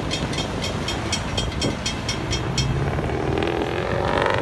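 Florida East Coast freight train cars rolling past on the rails, a steady rumble with a fast, regular high ticking that fades about two-thirds of the way through. Near the end a rising tone builds and grows louder.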